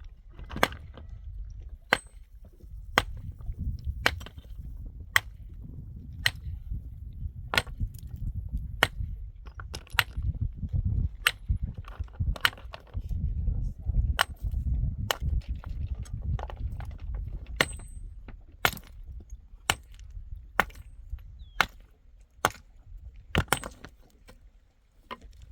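Repeated sharp strikes, about one a second at an uneven pace, typical of hand work with a hammer or axe, over a steady low rumble.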